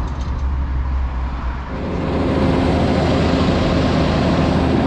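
A motor vehicle running with road noise: a low rumble that grows louder and fuller about two seconds in.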